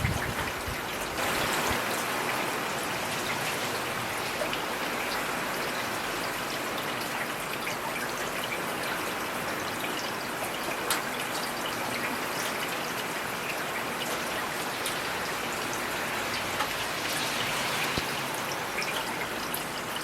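Heavy rain falling steadily, a dense even hiss with individual drops ticking sharply on a hard surface here and there.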